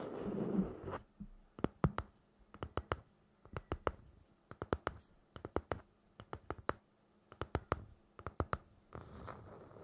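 Sharp clicks, mostly in quick groups of two to four about once a second, between a brief stretch of rustling, scratching noise at the start and again near the end.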